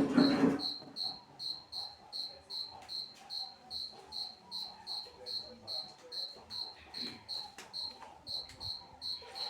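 A cricket chirping steadily, short high chirps about two or three times a second.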